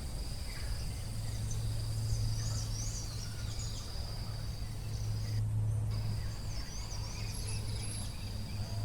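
Forest ambience: a steady high-pitched insect trill with birds chirping in short quick phrases, over a loud steady low hum. The trill drops out briefly about halfway through.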